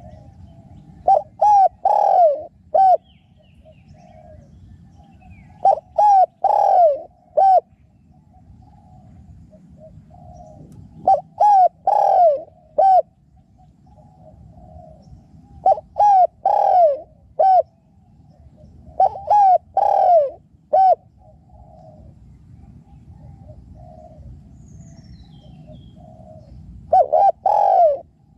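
Spotted dove cooing: six loud phrases of three or four rounded coos each, a few seconds apart. Fainter coos from another dove fill the gaps between them.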